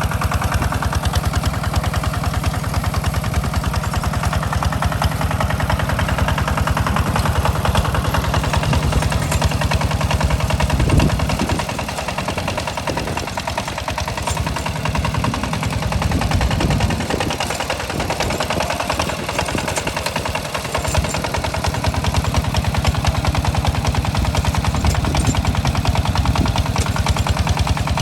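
Tractor engine running under load while plowing, a steady rapid chugging that drops a little in level and turns uneven for several seconds midway before picking back up.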